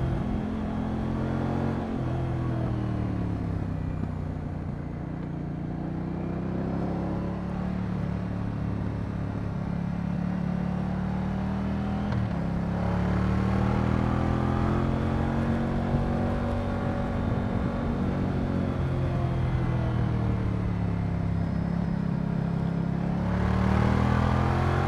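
Moto Guzzi V100 Mandello's transverse V-twin running under way. Its pitch falls a couple of seconds in, then rises and falls again through the revs. There is a sudden step near the middle, like a gear change, and it climbs once more near the end.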